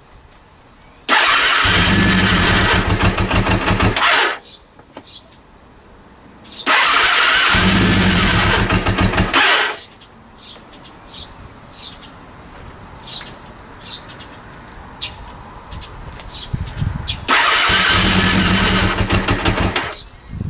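Honda CB400 four-cylinder engine being cranked by its starter three times, each burst lasting about three seconds and stopping without the engine settling into a steady run: the engine is failing to start.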